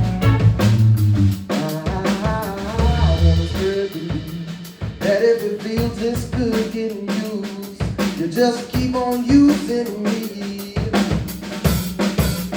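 Live blues band playing an instrumental passage: a drum kit keeping time with snare rimshots and bass drum, under a melodic lead line that bends in pitch and a bass line.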